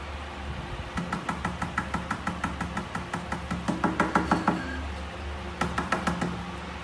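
A rapid run of light knocks or taps, about six a second, loudest about four seconds in, then a shorter run near the end, over a steady low hum.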